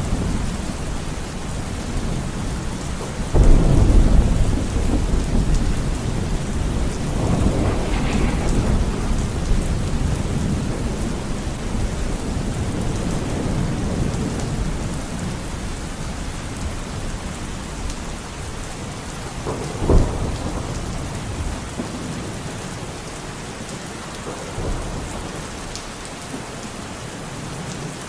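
Steady rain with thunder. A loud thunderclap breaks about three and a half seconds in and rolls into long, low rumbling, a sharper crack comes about twenty seconds in, and the rumble fades toward the end.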